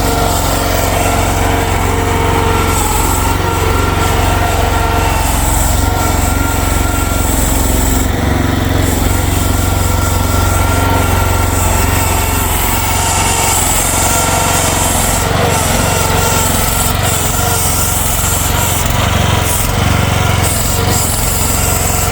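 Small gasoline engine of a Future FT15 mini excavator running steadily under working load as the machine plows snow with its front blade.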